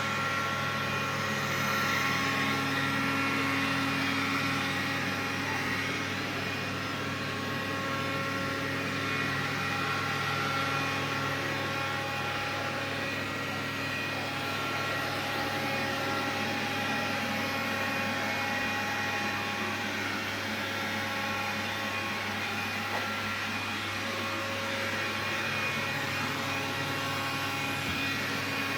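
Xiaomi vacuum cleaner running steadily: a rushing motor and airflow noise with several thin whining tones that come and go over it. This is the extraneous noise the owner is documenting.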